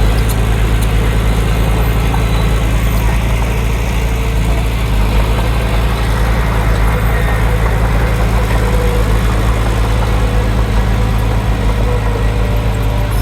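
Heavy diesel engine of an earthmoving machine running steadily, a low, even rumble with a fast pulse.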